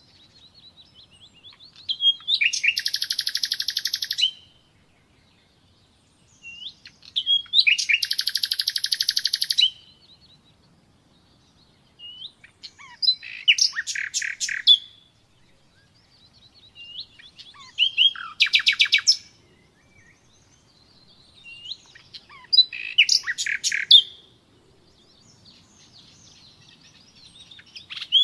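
Common nightingale singing: phrases a few seconds long, about every five seconds, with short pauses between them. Several phrases start with soft whistled notes and build into loud, rapid trills.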